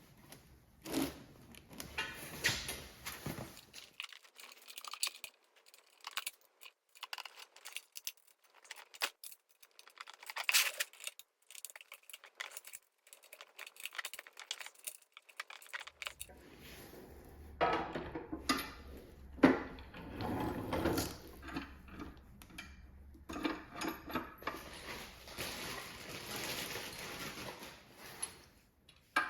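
Irregular metallic clicks and clinks of hand tools and steel lift parts being handled during assembly of a scissor-jack motorcycle lift. There is a sparser stretch early on and denser clatter in the second half.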